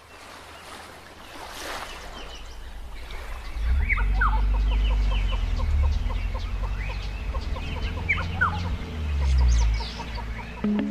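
Birds calling, several short swooping chirps with a fast run of small clicking notes, over a deep rumble of wind buffeting the microphone that grows loud about a second and a half in.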